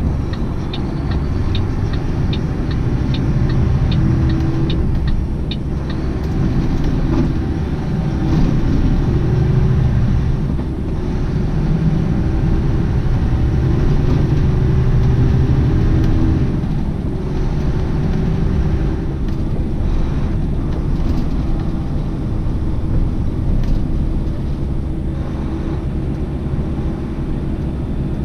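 Semi-truck engine running, heard from inside the cab, pulling away and accelerating with its pitch rising in the middle of the stretch. A turn signal clicks steadily, about two to three times a second, for roughly the first five seconds.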